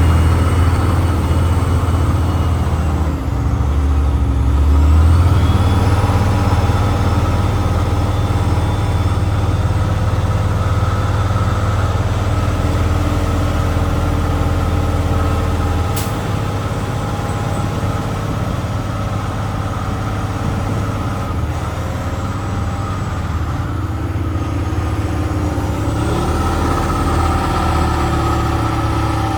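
Logging truck's diesel engine running steadily, with a brief swell in engine sound about five seconds in and a single sharp click around the middle.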